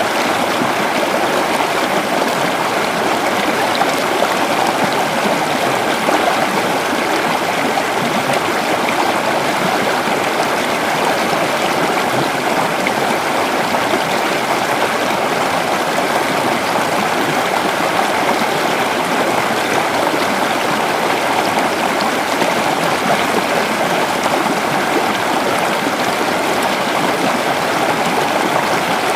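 Creek water flowing steadily over rocks, a continuous even rush.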